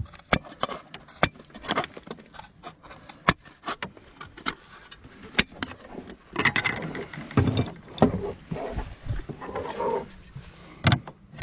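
Irregular sharp taps and knocks, with a few brief scraping stretches, from hand work on fibre-cement artificial slates as a slate is cut to size and fitted.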